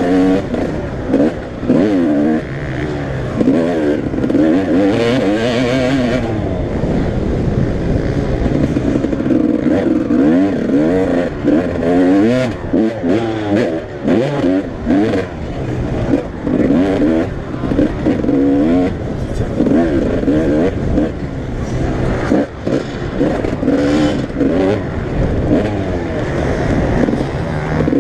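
Several motocross bikes racing, their engine notes overlapping and constantly revving up and down.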